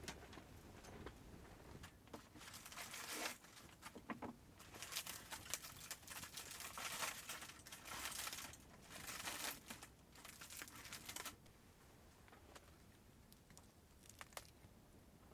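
Crinkling and rustling as something crinkly is handled, in irregular bursts for several seconds before stopping, followed by a few faint clicks.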